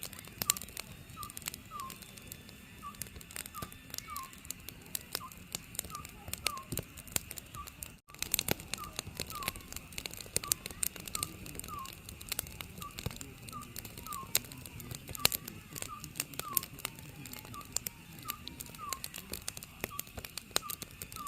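An Oriental scops owl calling, short whistled notes repeated steadily about twice a second, over the continuous popping and crackling of a wood fire.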